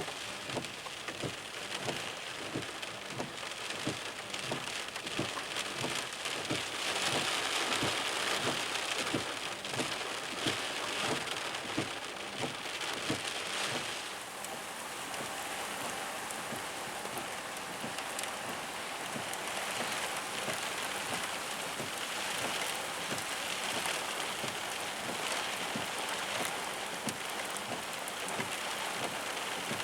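Steady rain falling: a continuous hiss with many small irregular taps throughout.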